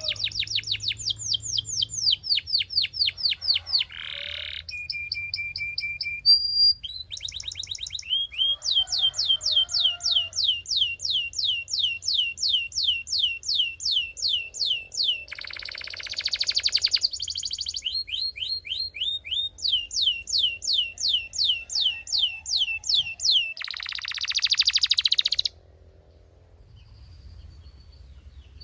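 Belgian canary singing: long runs of the same quick sweeping note repeated about five times a second, broken by a short held whistle and two harsh buzzy rolls. The song stops a few seconds before the end.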